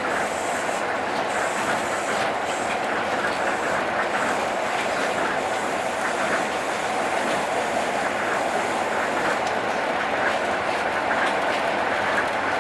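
Tokyo Monorail train running steadily between stations, heard from inside the car: an even rumble of its running gear and motors.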